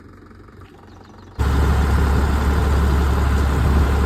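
An engine running steadily with a strong low hum, cutting in abruptly and loud about a second and a half in after a quiet stretch.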